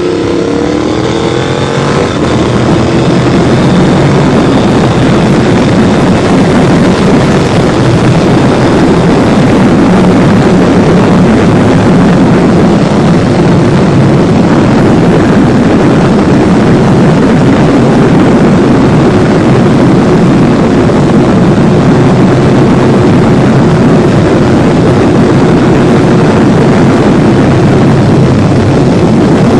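Honda VTR1000 SP1's 90-degree V-twin running loud through titanium exhausts, climbing in revs over the first two seconds, then holding a steady, dense drone.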